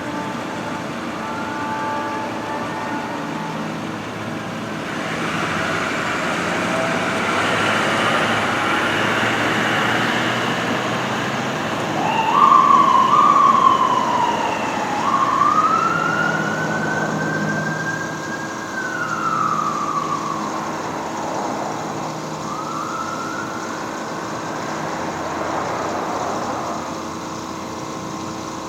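Fire engine's B&M Superchief mechanical siren winding up and down: several rising and falling wails, one held high before it falls away, loudest about twelve seconds in. Heavy traffic and road noise run under it as the apparatus passes.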